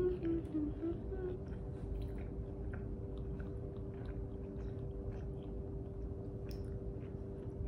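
Close-up chewing of a fried mozzarella stick, with small wet mouth clicks at irregular intervals, over a steady low hum.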